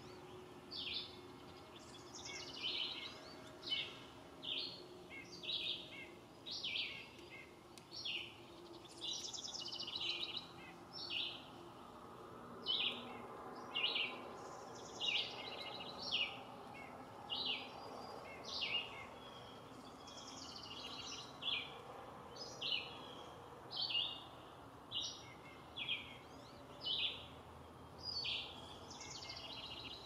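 A bird calling one short, high note over and over, a little more than once a second, without a break.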